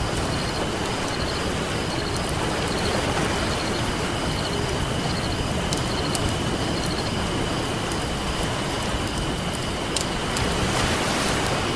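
Ocean waves washing steadily with a crackling campfire, a few sharp pops standing out from the even rush. A constant high-pitched tone and faint repeated chirps run underneath.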